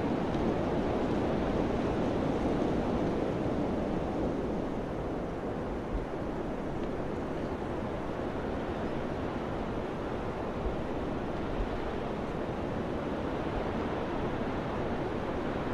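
Steady wind, a broad rushing noise that eases slightly after the first few seconds, with a few faint low thumps.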